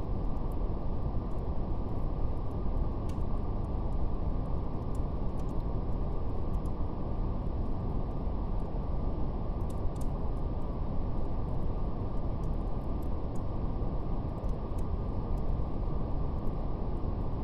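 Steady brown noise, a deep, even hiss with no high end, with faint scattered crackles of a fire over it.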